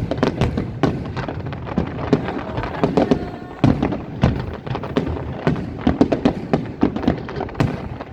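Fireworks display: a rapid, continuous run of bangs and crackles, several a second.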